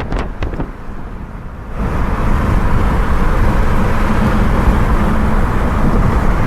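Road and wind noise inside a car moving at freeway speed, a steady rush that suddenly becomes much louder and brighter about two seconds in.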